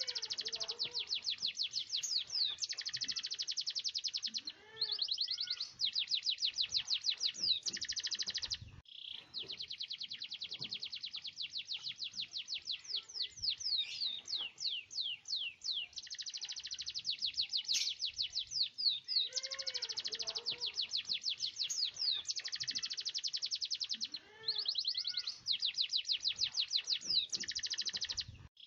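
Domestic canary in full song, singing long rolling trills of rapid, evenly repeated high notes, each run lasting several seconds with brief breaks between, mixed with a few lower swooping notes.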